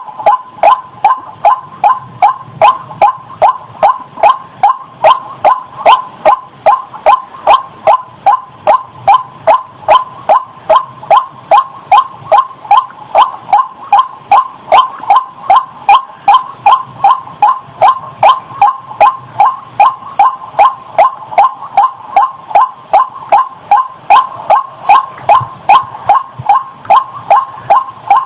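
White-breasted waterhen calling: a steady, even run of short repeated notes, about two a second, played as a lure call for trapping birds.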